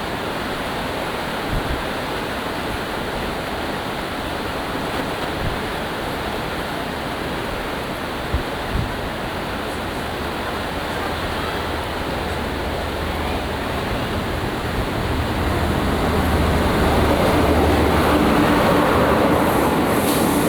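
Rough sea surf and spray pounding the sea wall, a steady rush of water noise with wind on the microphone. From about halfway a diesel train's low drone comes in and grows louder towards the end as the train approaches.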